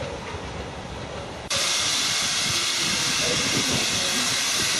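LMS Black 5 steam locomotives running, with the low rumble of the engines; about a second and a half in, a loud, steady hiss of escaping steam starts abruptly and carries on.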